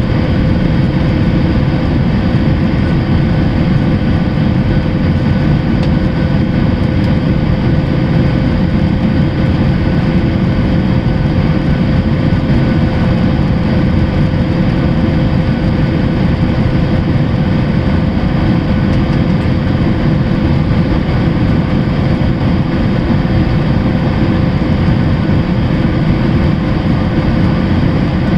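Boeing 737-800's CFM56-7B jet engines and airflow: a steady, unchanging noise, heaviest in the low range, with a faint steady hum on top.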